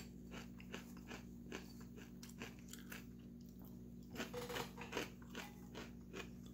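Faint crunching of popcorn being chewed: soft, irregular crunches, a few coming close together about four seconds in.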